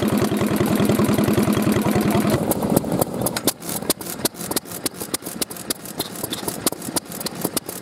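Old stationary engines running: first a fast, even, heavy clatter, then, about two and a half seconds in, an abrupt change to lighter, irregular clicking and tapping.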